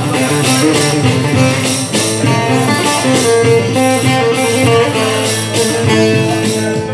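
Bağlama playing a plucked melodic instrumental passage over a steady beat, the break between sung verses of a Turkish folk song.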